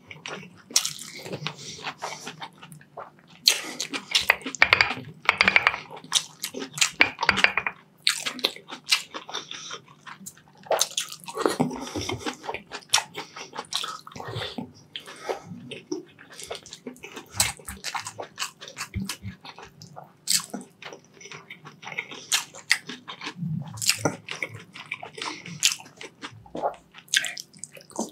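Close-miked eating of braised beef short ribs and rice: chewing with mouth and lip smacks, a dense run of sharp, irregular clicks.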